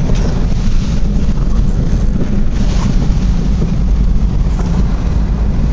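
Car driving: a steady low rumble of road and engine noise heard from inside the cabin.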